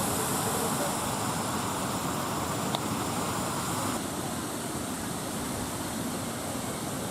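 Steady rushing outdoor noise with no clear single source, broken by one sharp click a little under three seconds in; it drops slightly in level about four seconds in.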